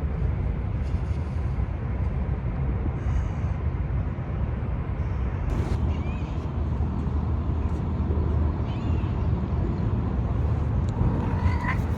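Steady low rumbling background noise, with a few faint, brief high calls that rise in pitch, one near the end.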